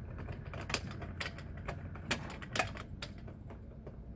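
Car jack being worked under the car: irregular metal clicks and creaks, a few louder knocks among them, over a steady low hum.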